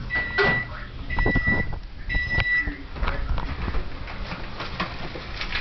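A kitchen appliance beeping three times, about a second apart, each beep a steady high tone about half a second long. Then scattered knocks and rustling.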